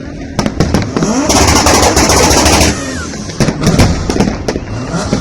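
Fireworks display going off: a string of sharp bangs, with a dense, loud crackling salvo about a second in that lasts over a second.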